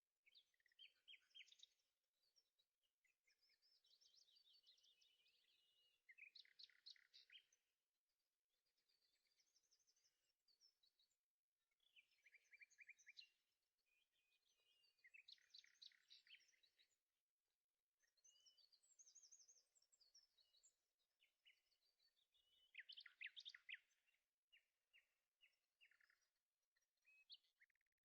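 Faint birdsong: small birds chirping and trilling in short high phrases every few seconds.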